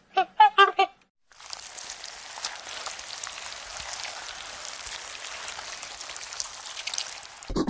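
Three short high-pitched animal calls in quick succession, then a steady rain-like hiss with faint crackles for the rest.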